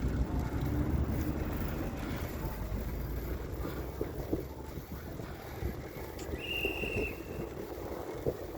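Wind buffeting the microphone outdoors, a steady low rumble, with a brief high-pitched tone about six and a half seconds in.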